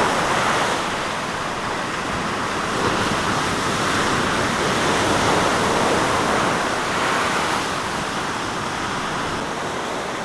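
Beck in full flood after heavy rain: a steady rush of fast-running water.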